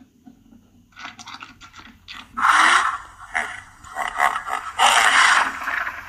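Rhinoceros eating: a run of rapid crunching and chomping on plant matter, with two louder noisy bursts about two and a half seconds and five seconds in.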